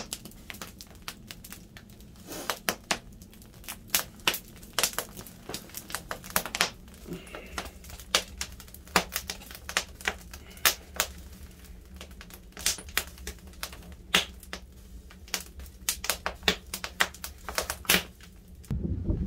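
Firewood burning, with sharp, irregular crackles and pops over a steady low hum.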